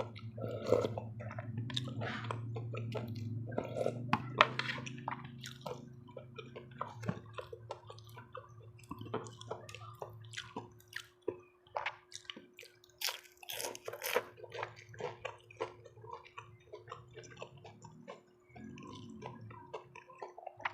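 Close-miked eating sounds: chewing and wet mouth sounds, with many small scattered clicks.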